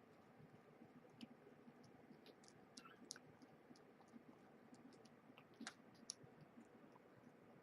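Near silence with faint, irregular clicks: kittens eating wet food from a shared bowl, their mouths smacking and lapping.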